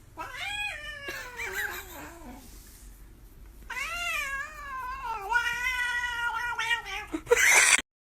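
A cat yowling in two long drawn-out calls, the first falling in pitch, the second longer and wavering. A short loud noisy burst follows near the end.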